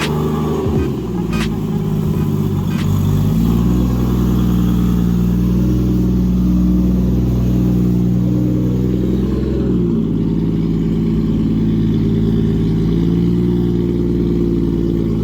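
Toyota 1JZ straight-six in a swapped Mazda Miata, running steadily. Its pitch steps up about three and a half seconds in and drops about ten seconds in.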